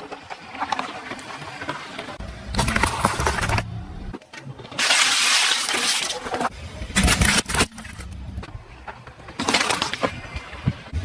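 A car's tyres rolling over and crushing crunchy objects: several separate bursts of crunching and cracking, with a longer noisy burst near the middle.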